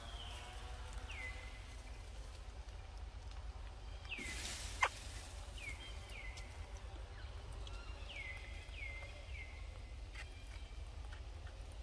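A bird calling repeatedly: short notes that slide down in pitch and level off, about nine of them, some in quick runs of two or three. A single sharp click about five seconds in.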